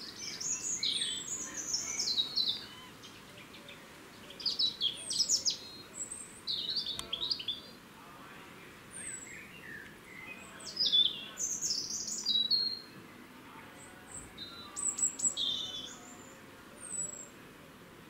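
Birds chirping: about seven bouts of short, high, thin chirps, many sweeping downward, with quiet gaps of a second or two between bouts.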